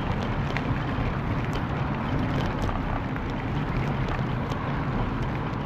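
Wind buffeting the microphone and the rumble of a moving bicycle, steady throughout, with scattered light clicks and rattles.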